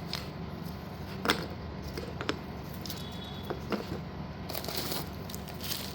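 Plastic packets of slate pieces being handled: a few sharp light clicks, then short crinkling rustles near the end.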